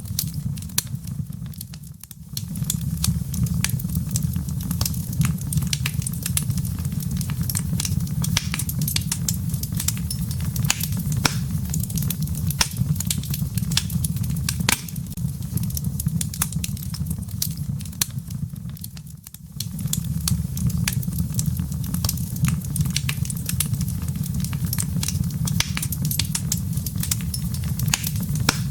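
Wood fire in a fireplace crackling: irregular sharp pops and snaps of burning wood and embers over a steady low rumble of flame. The sound dips briefly twice, about two seconds in and about two-thirds of the way through.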